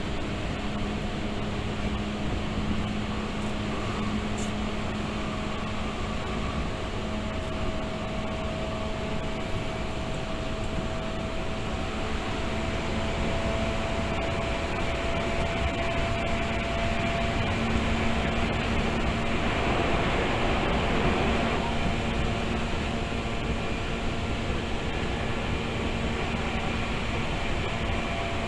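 Tokyu 8500 series electric train running at speed, heard from inside the passenger car: a steady rumble of wheels and running gear with a continuous hum. The noise swells briefly around twenty seconds in.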